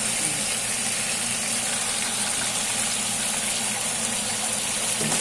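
Chicken and sauce sizzling in a wok on the stove: a steady hiss, with a low steady hum underneath.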